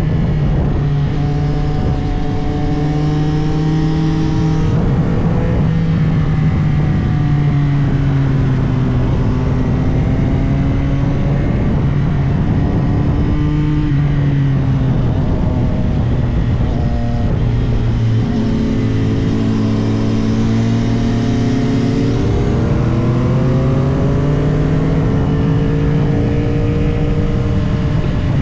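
CFMOTO 675SR-R's inline-three engine pulling through the gears, its pitch rising and falling as the rider accelerates, shifts and rolls off, over a steady rush of wind.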